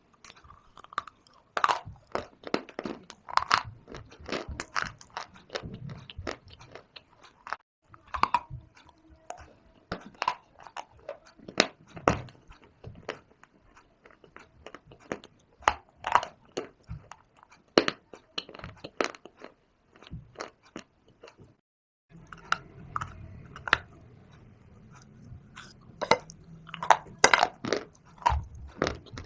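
Bites into and chewing of hard, dry shale stone clay, close-miked: a run of sharp, irregular crunches, with a short pause about two-thirds of the way through.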